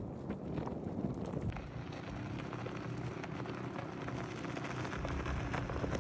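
Wind buffeting the microphone over a low, steady rumble, with a faint hum coming in about two and a half seconds in.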